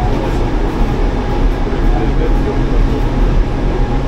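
Mountain train running downhill, a steady rumble and rail noise heard from aboard.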